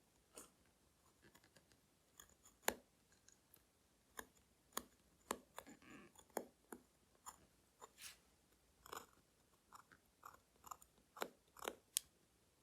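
Faint, irregular clicks and small scrapes of watchmaker's tools handling watch hands at the bench during re-luming, with a sharper tick about a third of the way in and another near the end.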